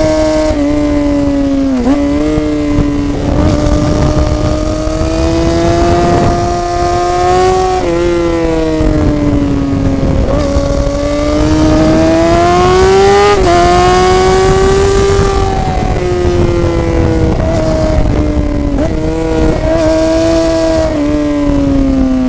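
Sport motorcycle engine under way, its revs climbing and falling with the throttle, with several quick drops in pitch at gear changes, over a low wind rumble.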